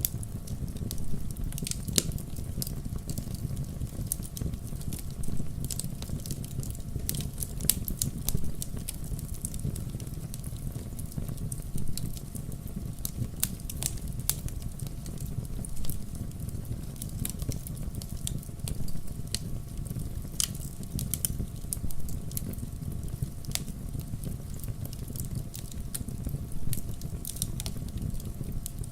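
Wood fire crackling in a fireplace: frequent sharp irregular pops and snaps over a steady low rumble of the burning.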